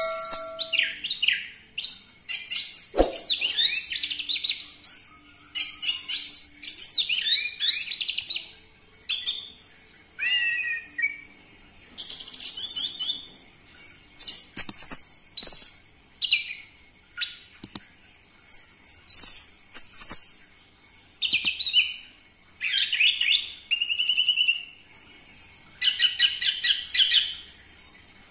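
Orange-headed thrush singing: a run of short, varied whistled and trilled phrases, about one every second or two, with brief pauses between them.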